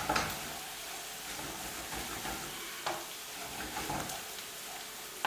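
Chopped onions and green chilli sizzling as they fry in oil in a pan, with a few short knocks of a utensil against the pan.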